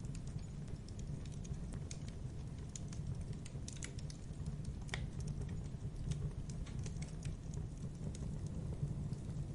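Wood fire in a fireplace crackling: irregular sharp pops and snaps over a steady low rumble, with one louder crack about five seconds in.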